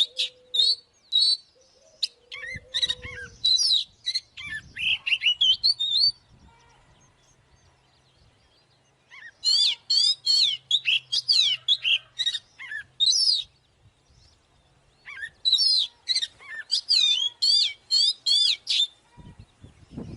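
Oriental magpie-robin singing: rapid strings of varied, clear whistled notes that slur up and down, delivered in three bouts with pauses of a few seconds between them.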